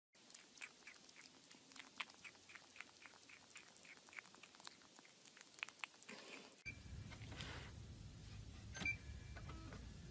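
Faint crunchy chewing, a quick run of sharp clicks about four or five a second. About two-thirds through it cuts off suddenly to a low steady hum with a few faint short beeps.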